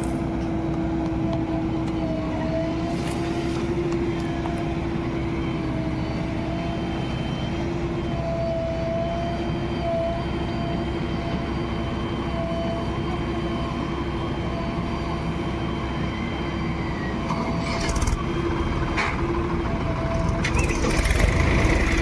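Heavy diesel engine of a loading machine running steadily, with a couple of short knocks near the end as the sound grows louder.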